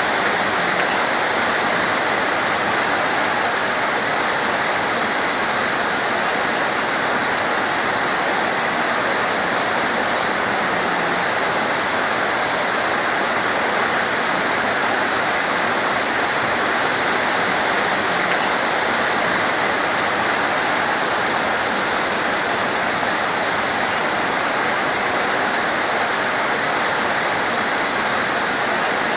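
Heavy torrential rain falling steadily, a dense even hiss of water, with one short click about seven seconds in.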